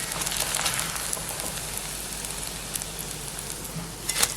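Oil sizzling and crackling in a frying pan as a shallow-fried snack cooks, with a brief clatter near the end.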